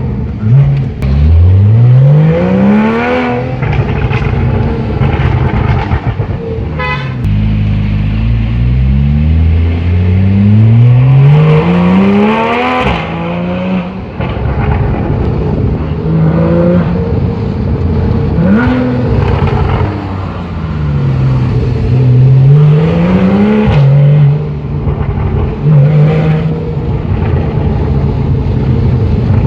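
Porsche 911 Carrera GTS flat-six with an IPE aftermarket exhaust, loud and revving hard. The engine note climbs in several long pulls, each ending in a sharp drop in pitch as the revs fall, about four or five times.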